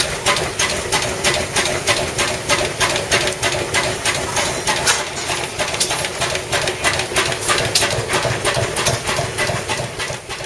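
Compound hot-bulb semi-diesel engine with an in-line air-compressor cylinder running steadily, knocking sharply and evenly about four times a second.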